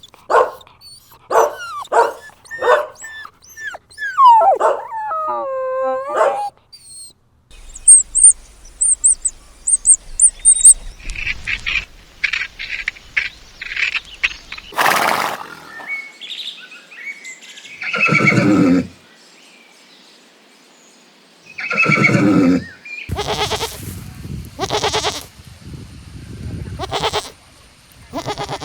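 A run of different animal calls, cut one after another: quick repeated calls at first, then high twittering chirps, then two long drawn-out calls and more short calls.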